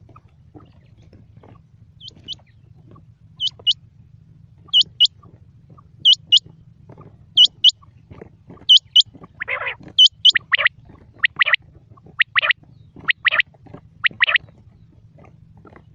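Quail calling: a high two-note call repeated about every second and a half, then, from about ten seconds in, a lower, harsher double call repeated more quickly, five times.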